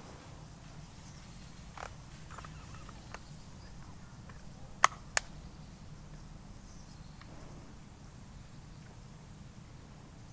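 Two sharp clicks about a third of a second apart near the middle, over a steady low rumble outdoors, with a few fainter ticks before them.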